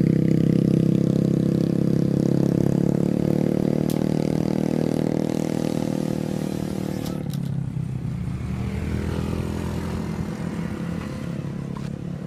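Parrot Bebop 2 quadcopter's motors and propellers buzzing steadily in flight, growing gradually fainter.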